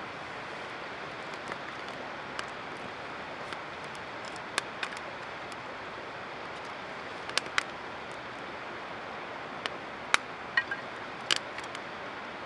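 Small wood fire of split kindling crackling, with sharp pops now and then over a steady hiss.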